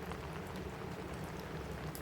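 Steady rain falling on a cabin roof, mixed with a crackling fireplace that adds scattered small pops.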